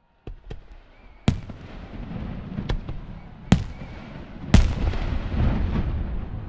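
Fireworks shells bursting overhead in a salute display: two small pops, then a series of loud sharp bangs about a second apart, each followed by a rolling rumble of echo, the loudest near the end.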